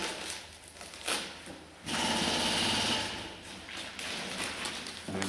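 Masking tape being peeled off a freshly sprayed paint finish: a short rip about a second in, then two longer stretches of rapid rasping tearing.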